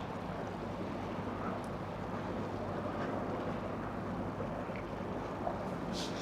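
Steady low hum of boat engines on the harbour, mixed with wind on the microphone.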